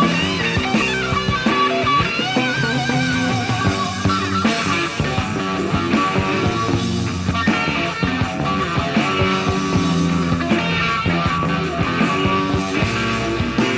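Hard rock band playing an instrumental passage of a slow ballad: lead electric guitar holds long, wavering notes over bass guitar and drums.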